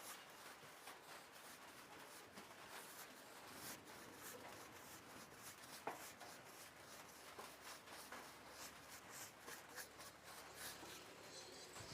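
Faint, scratchy brushing: a paintbrush stroking paint onto a wooden tabletop, with light ticks and one sharper click about halfway through.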